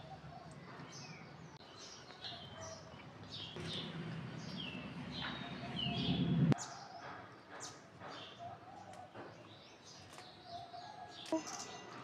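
Faint, scattered short high bird chirps and twitters throughout. A low rumble rises in the middle and stops abruptly about six and a half seconds in.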